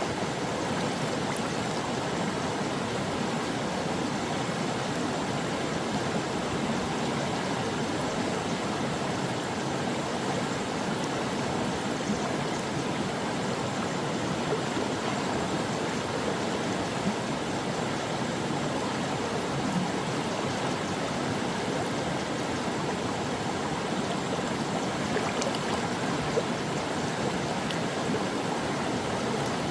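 Stream water flowing steadily over rocks, an even rushing babble with small splashes and gurgles throughout.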